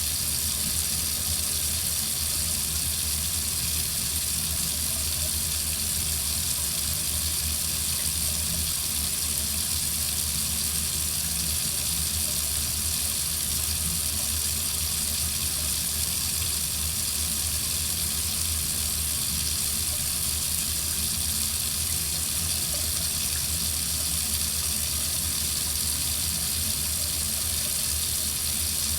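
Water running steadily from a faucet into a sink, a constant even splashing hiss.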